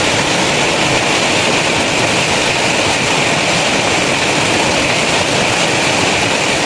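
Heavy rain pouring down steadily, a loud, even hiss with no breaks.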